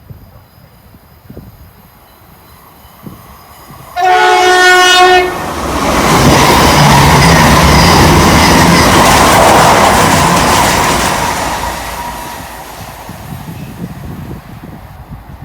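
A high-speed passenger train, a GWR Intercity Express Train, sounds one short horn blast about four seconds in, then passes at speed with a loud rushing roar of wheels and air that fades away near the end.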